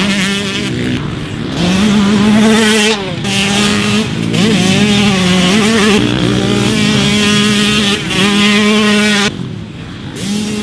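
Big-bore Yamaha YZ125 two-stroke motocross bike being ridden hard, its engine revving up and down again and again with brief breaks between pulls, and a quieter stretch near the end.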